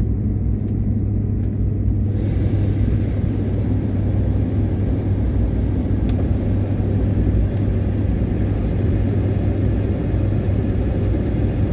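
Car driving, a steady low rumble of engine and road noise, with a higher hiss joining about two seconds in.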